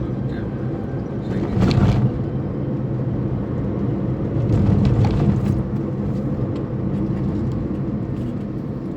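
Vehicle driving on a road: steady engine and road noise, rising in two louder swells, about a second and a half in and again around five seconds in.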